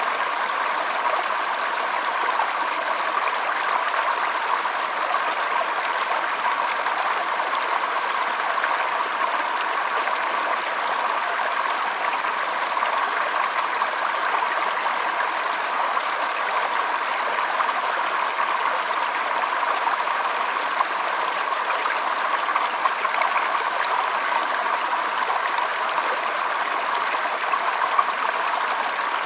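Running water flowing steadily, an even unbroken sound with no pauses or changes.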